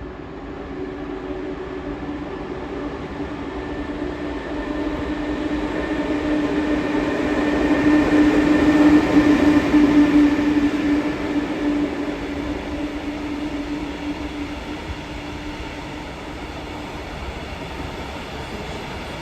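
EU07 electric locomotive hauling a freight train past: a steady electric hum with a higher whine above it, swelling to its loudest about halfway through and then slowly fading as the train rolls away.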